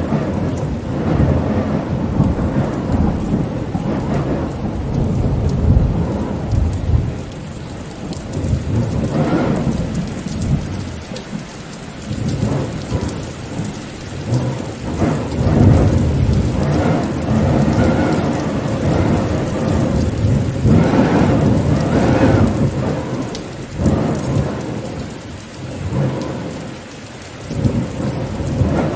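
Heavy rain with rumbling thunder, the low rumble rising and falling in long swells.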